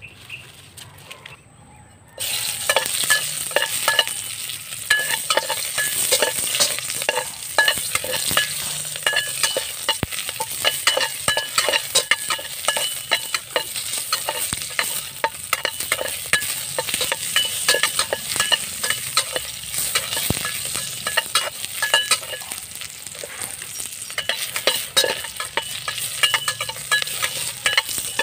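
Chopped ginger and other pieces frying in a metal pot over a wood fire, stirred with a metal ladle: a dense sizzle full of small pops that starts suddenly about two seconds in.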